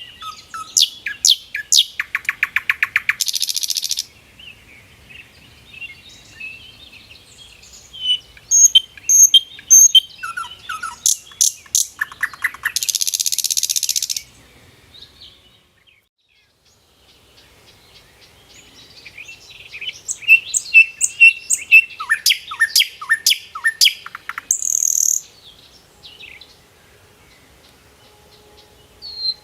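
Songbirds singing: bursts of quick chirps and whistled notes, broken by rapid buzzy trills that last a second or two, with a brief lull about halfway through.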